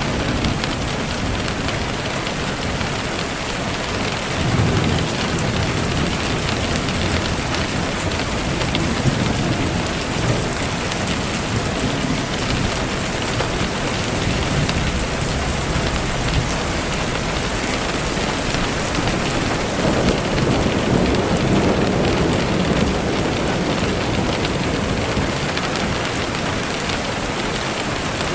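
Steady heavy rain falling on surfaces, with low rumbles of thunder swelling about four seconds in and again about twenty seconds in.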